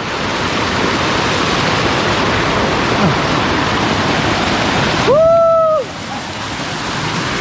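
Waterfall rushing in a loud, even roar of water. About five seconds in, a short held voice call cuts across it for under a second.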